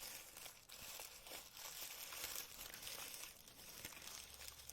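Packaging crinkling and rustling in the hands as a small wrapped item is unwrapped, a faint run of irregular crackles.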